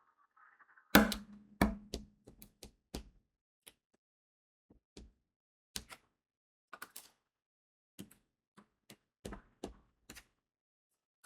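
Irregular sharp clicks and taps of crystal diamond-painting beads being pressed onto the sticky canvas with a drill pen, with two heavier knocks about a second in.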